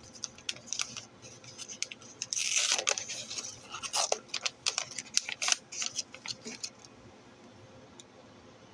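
Package being opened by hand: crinkling of the packaging with a run of sharp clicks and taps, which stop about seven seconds in.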